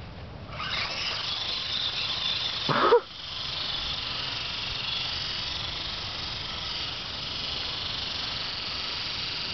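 Toy RC helicopter's electric motor and rotor whining as it spools up, rising in pitch within the first second and then holding a steady high whine as it flies. About three seconds in comes one short, loud sound that falls sharply in pitch.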